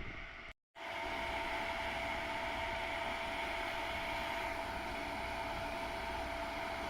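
Steady machine hum with hiss, holding a few steady tones, after a brief dropout about half a second in.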